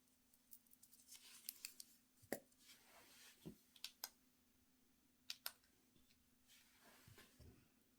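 Faint handling sounds: a scatter of small sharp clicks and brief rustles as nail products and tools are picked up and set down.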